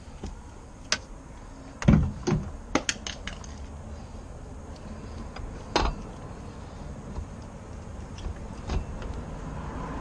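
Scattered metallic clinks and knocks of hand tools and parts during engine-removal work, a few sharp ones in a quick cluster about two to three seconds in and another near six seconds.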